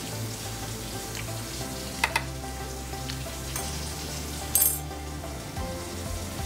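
A person chewing a pickled pepper: a crackling crunch over a steady low hum. Two sharp clicks come about two seconds in, and a brief louder clatter a little past halfway.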